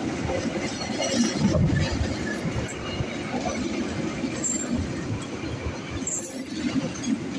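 Passenger coaches of a KAI train rolling past: a steady rumble and rattle of steel wheels on the rails. A couple of brief high wheel squeals come in the second half.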